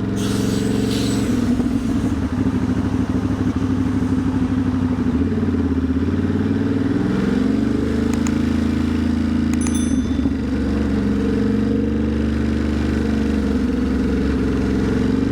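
Ducati Monster's V-twin engine running underway, heard from on the bike, its pitch climbing as it revs up about halfway through, over a steady hiss of wind and road noise.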